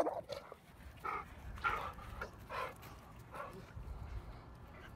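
Dogs making several short, faint vocal sounds, brief grumbles or whines a fraction of a second each, spaced through the first few seconds as they mill about and sniff one another.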